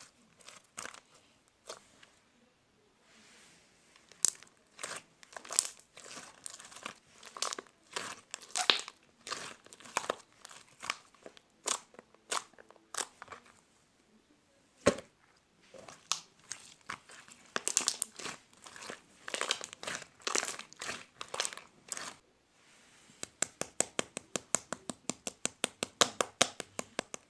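Slime being squished and pressed by hand, giving sharp clicking and crackling pops. Near the end a fast, even run of clicks, about five a second.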